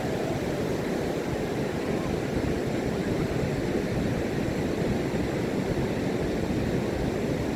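Ocean surf washing onto a beach: a steady, continuous roar of breaking waves, heaviest in the low and middle range.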